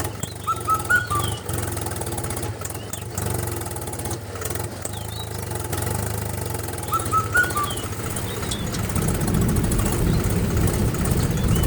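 A small engine running steadily with a fast, even beat, likely the DIY mini tractor's engine. Short bird-like chirps come twice, about six seconds apart.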